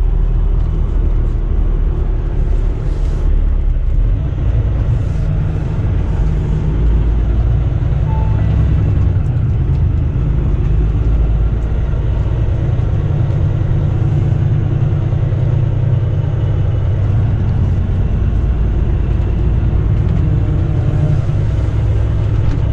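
Semi truck's diesel engine running at low speed while the truck creeps through a parking lot, heard from inside the cab as a steady low rumble, with a few brief hisses in the first several seconds.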